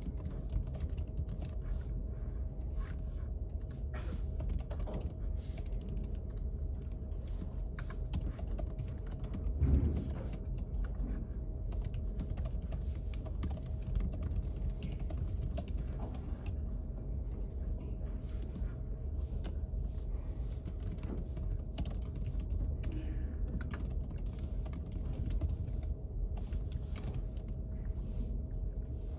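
Typing on a computer keyboard: irregular runs of key clicks over a steady low background hum with a faint steady tone. A single louder thump about ten seconds in.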